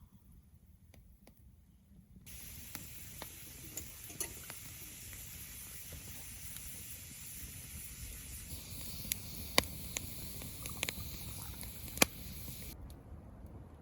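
Food sizzling on a hot stone tile, a steady hiss with scattered sharp pops and clicks. The hiss starts suddenly about two seconds in and cuts off near the end.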